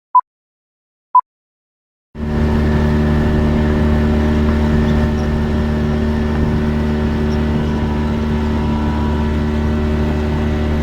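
Two short electronic beeps a second apart, then, cutting in abruptly about two seconds in, a boat's outboard motor running at a steady speed.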